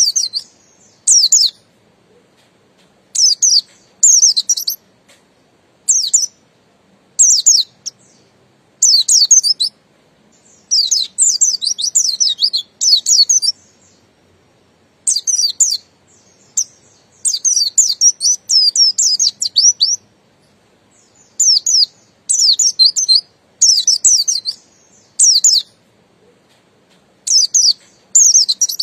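Buxtoni white-eye (pleci buxtoni) singing its 'ngalas' song: high, rapid twittering phrases, some short and some running on for a few seconds, broken by brief pauses.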